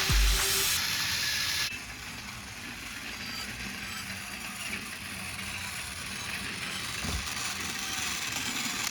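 Battery-powered toy trains running on plastic track: a steady motor whir. There is a louder hiss for the first second and a half, then a quieter even running noise with a faint low hum.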